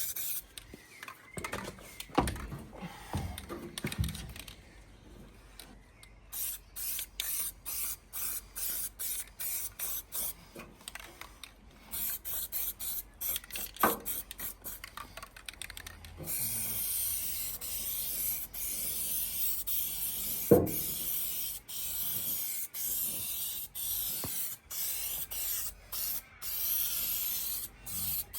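Paint being sprayed in repeated bursts of hiss: many short, stuttering squirts at first, then longer, steadier passes in the second half. A few knocks break in, the loudest about twenty seconds in.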